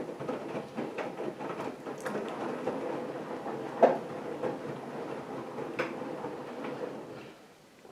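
AEG Lavamat front-loading washing machine running a wash, its drum turning with a steady rumble and scattered clicks and knocks. The noise dies away near the end as the drum stops.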